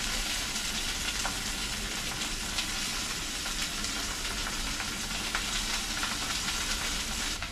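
Sausage and peppers frying on a camp stove: a steady sizzle with scattered pops and crackles, which drops off abruptly near the end.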